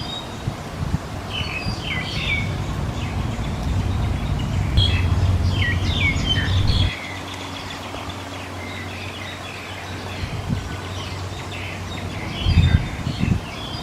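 Small birds chirping with short, quick repeated notes throughout. A loud low rumble runs underneath, stops suddenly about seven seconds in, and comes back briefly near the end.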